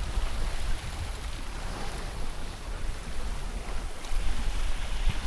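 Wind and sea rushing past a sailboat under way, with wind buffeting the microphone in a low rumble.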